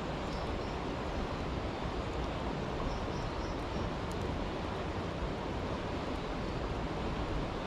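Steady rushing of a brook, with a few faint crackles from a campfire.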